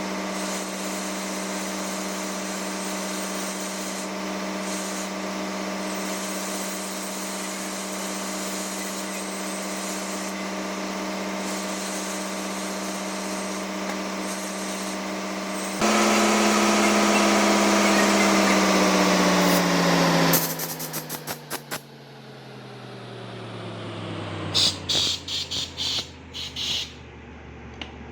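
A machine running with a steady pitched hum. About two-thirds of the way through it gets suddenly louder, then winds down with a steadily falling pitch, while clicks and rattles come in near the end.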